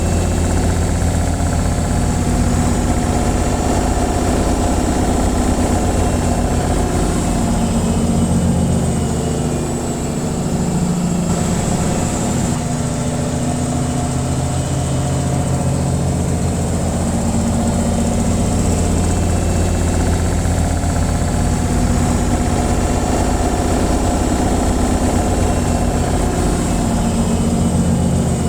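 Washing machine in its spin cycle: a steady low hum and rumble with a faint high hiss.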